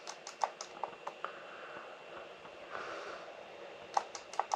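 Scattered computer mouse clicks, a handful in the first second and another quick cluster near the end, with a soft breath through the nose about three seconds in.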